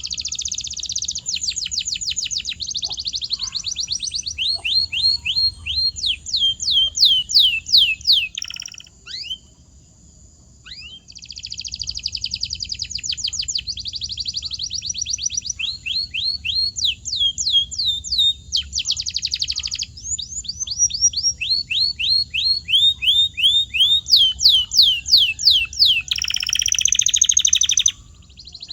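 Domestic canary singing: fast trills and runs of rapidly repeated down-sweeping notes, with a break of about two seconds partway through.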